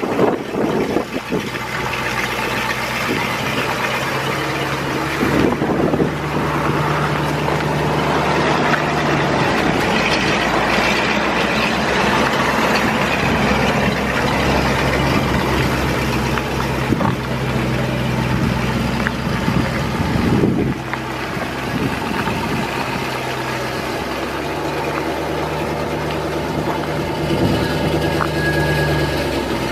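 Chevrolet 350 V-8 gas engine of a 1977 Chevrolet C60 grain truck running at idle, a steady low drone that shifts in pitch and level a few times.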